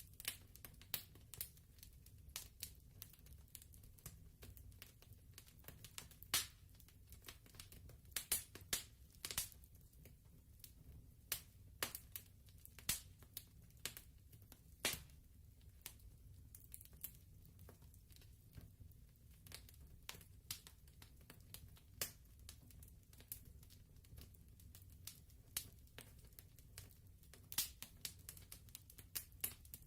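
Fireplace crackling faintly: irregular sharp pops and snaps over a steady low rumble.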